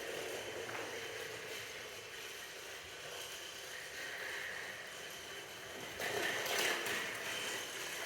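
Toy train running along its track with a steady mechanical whir, with a louder clatter about six seconds in.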